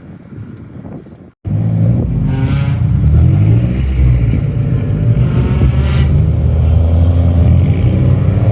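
Car engine and exhaust rumbling loudly at low revs. It starts abruptly about a second and a half in, after a short drop to silence; before that there is only quieter wind and traffic noise.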